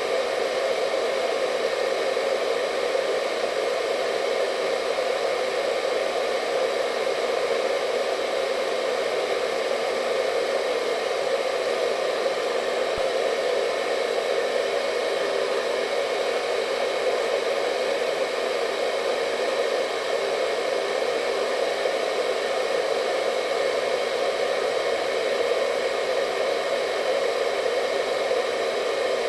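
Hair dryer running steadily: a constant blowing rush with a faint motor whine, unchanging throughout.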